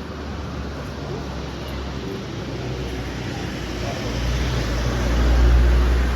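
A vehicle passing close on a wet street: tyre hiss and a low engine rumble build up to a peak near the end.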